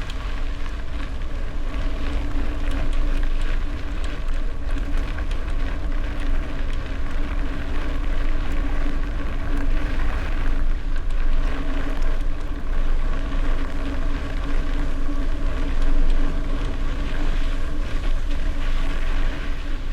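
Wind buffeting a bicycle-mounted camera's microphone while riding, mixed with bicycle tyres rolling and a steady hum, swelling a little now and then.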